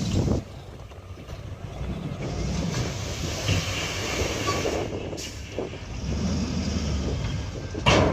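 Heavy diesel machinery running with a steady low rumble, with a sudden loud knock near the end.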